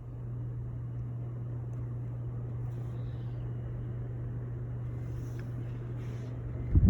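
36-inch Hampton Bay Minuet ceiling fan running on high from its wall control: a steady low motor hum over the even rush of moving air. Near the end, low buffeting thumps break in.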